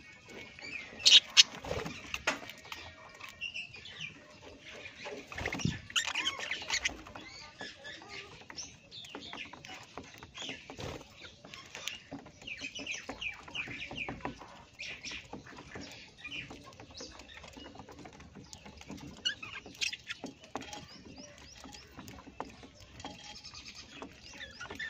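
Parrots chirping in short, repeated high calls, mixed with clicks and rustling. The loudest sharp sounds come about a second in and again around six seconds in.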